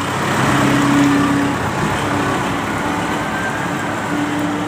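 Tractor engine running, a steady low hum that drops away and comes back a few times.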